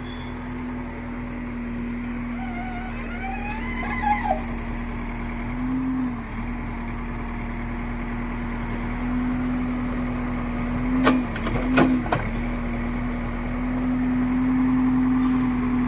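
Eicher tipper truck's diesel engine running steadily on the move, its pitch dipping briefly about six seconds in and again around eleven to twelve seconds. Two sharp knocks come near the eleven- and twelve-second marks.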